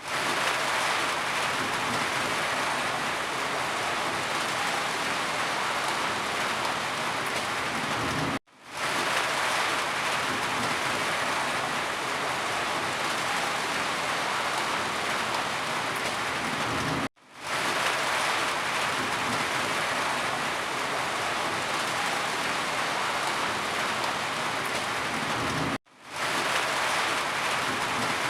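Steady rain falling. It cuts out for a moment three times, about every eight and a half seconds, and swells back in each time.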